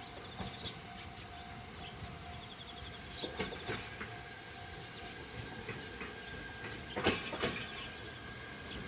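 Old JNR-type electric train running on the rails: a steady rumble and hum, broken by several short sharp wheel-and-rail noises, the loudest about seven seconds in.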